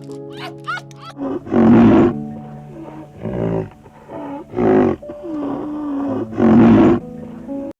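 Four loud, rough animal calls, each about half a second long, coming a second or more apart over background music, which carries on underneath.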